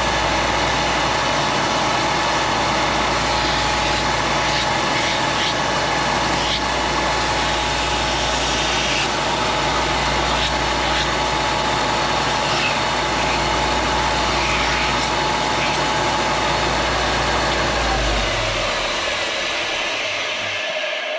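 Electric power tool motor running steadily at full speed with a constant whine, then switched off about three-quarters of the way through, its pitch falling as it winds down to a stop.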